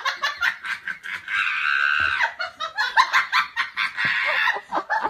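High-pitched laughter in quick choppy bursts, with a drawn-out squeal about a second and a half in.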